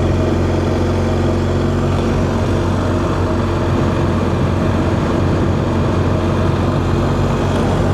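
Motorcycle engine running at a steady, unchanging speed, with road and wind noise.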